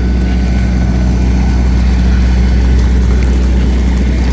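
Steady low drone of a parked Boeing 737-800's cabin air and auxiliary power unit, an even hum with no change.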